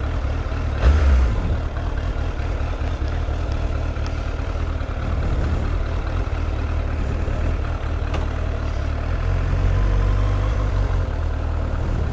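Suzuki GSF650 Bandit's inline-four engine idling steadily, with a brief louder bump about a second in and a fuller, louder low rumble from about nine seconds in.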